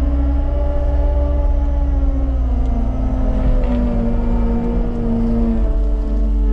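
Skid steer loader's diesel engine running steadily while working, its pitch shifting slightly a couple of times.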